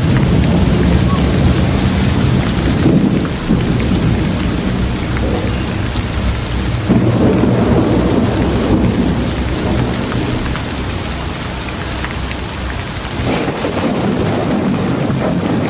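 Steady heavy rain with a low rolling rumble of thunder underneath. The rumble swells and eases several times.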